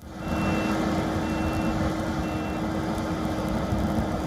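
A large vehicle's engine running steadily, with three faint high beeps about a second apart like a reversing alarm.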